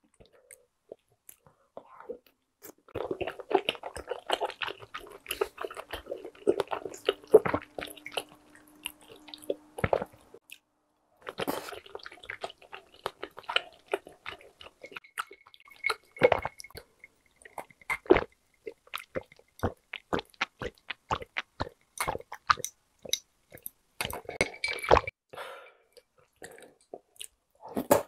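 Chewing: mouth sounds of someone eating spicy tteokbokki rice cakes and bunmoja glass noodles, heard as a run of quick wet clicks. It starts about three seconds in, pauses briefly around ten seconds, then carries on as scattered clicks.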